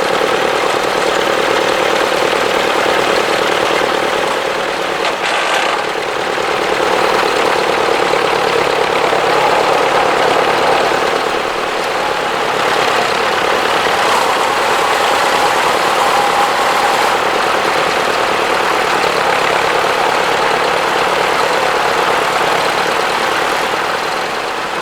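Tractor engine running steadily, with an even, rapid throb.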